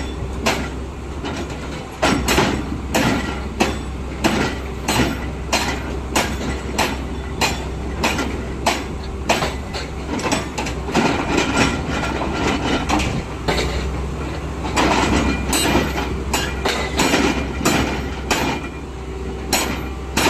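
LiuGong 965E hydraulic excavator running, its engine a steady low hum under frequent, irregular metal clanks and knocks, about one or two a second.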